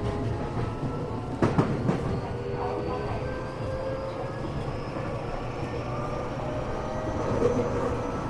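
Tokyo Metro 8000 series train running, heard from inside a car: steady wheel and track rumble with motor tones slowly rising in pitch as it gathers speed. A couple of sharp knocks come about a second and a half in.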